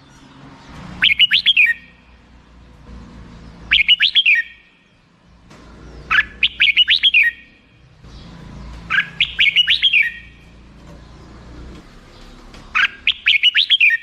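Red-whiskered bulbul singing: five short, quick phrases of four to six bright notes each, repeated every few seconds.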